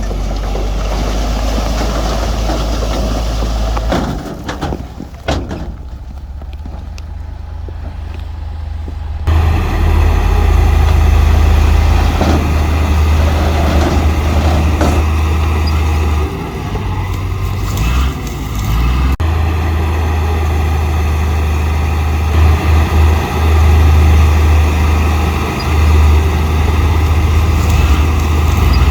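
Heavy diesel earthmoving machinery, bulldozers and dump trucks, running under load with a deep, steady engine drone. The sound changes abruptly about four, nine and nineteen seconds in, going from a quieter stretch to a louder, fuller engine note.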